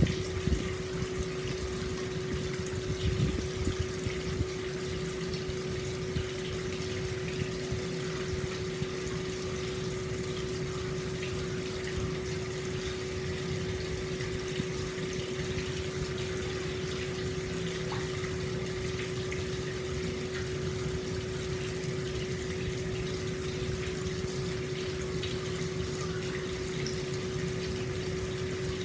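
Hot spring water pouring steadily into an open-air stone bath, a continuous splashing flow with a steady low hum under it; the splashing is a little louder in the first second and again around three seconds in.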